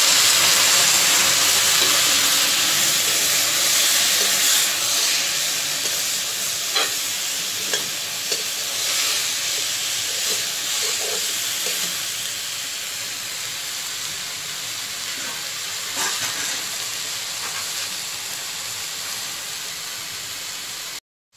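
A wet ginger-garlic, green chilli and onion paste sizzles in hot oil in a kadhai with fried taro corm and potato pieces. The sizzle is loudest at first and slowly dies down. A spatula stirring the pan makes a few short scrapes and taps.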